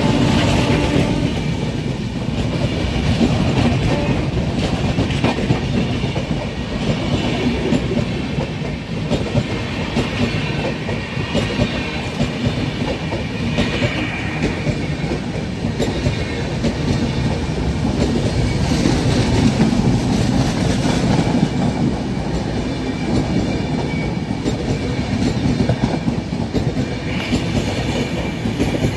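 Passenger train coaches running past close by at speed: a steady heavy rumble with a constant clickety-clack of wheels over the rail joints. A locomotive horn note cuts off about a second in.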